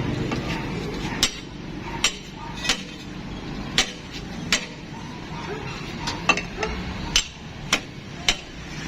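Hammer blows on metal during tire repair work, about ten sharp strikes at uneven intervals.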